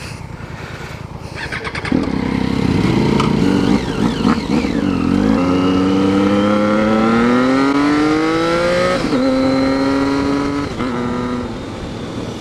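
Motorcycle three-cylinder engine, the Triumph Street Triple, pulling away: quieter at first, then rising in pitch under acceleration, with a gear change about five seconds in and another about nine seconds in, then easing off near the end.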